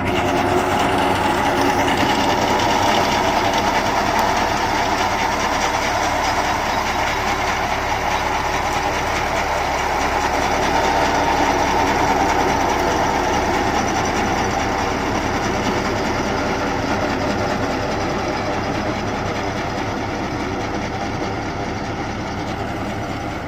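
Tractor engine running steadily while driving a tractor-mounted Sardar wheat reaper as it cuts wheat, including lodged stalks.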